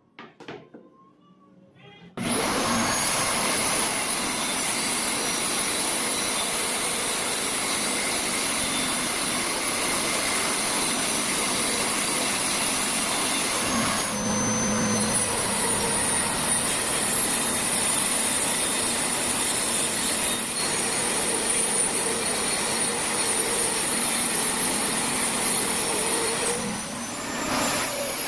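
A woodworking power tool's electric motor running steadily with a high whine. It starts abruptly about two seconds in and dips briefly twice, about halfway and near the end.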